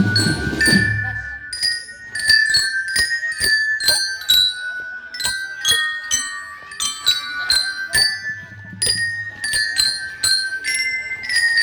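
Marching glockenspiel (bell lyra) of a drum band playing a melody of quick struck, ringing metal notes, with the drums mostly dropped out.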